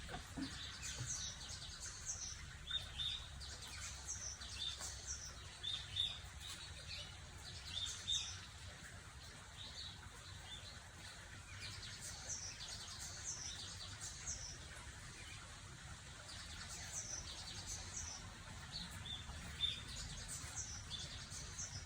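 Several wild birds singing and chirping in the background, short high calls scattered throughout, over a faint steady low rumble.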